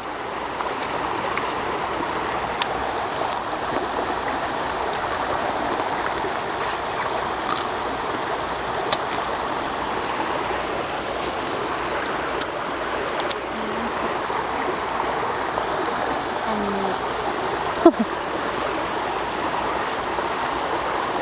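Water of a stream running steadily, a continuous even rush, with a few short sharp clicks over it.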